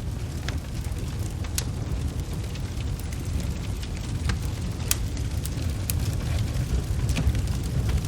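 Wood fire crackling in a fireplace, with a handful of sharp, separate pops over a steady low rumble.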